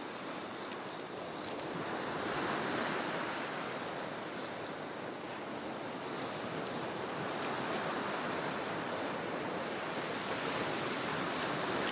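Sea waves washing onto the shore, a steady rush that swells about two seconds in and again later on.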